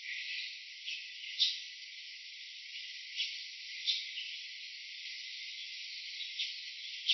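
Steady high-pitched hiss of an insect chorus, with a few short, sharper chirps or clicks at irregular moments.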